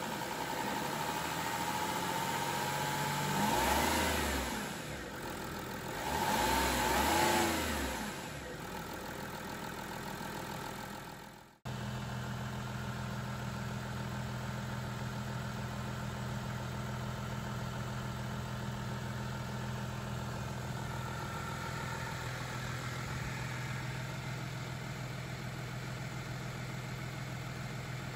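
Audi A6 C6 2.7 TDI V6 diesel engine revved twice, rising and falling, a few seconds apart. After a brief sudden break it idles steadily.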